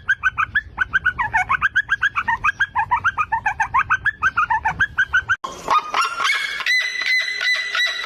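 Bird calls: a fast run of short, repeated calls for about five seconds. After an abrupt cut, a different call follows, held at a steady pitch with a fast pulsing.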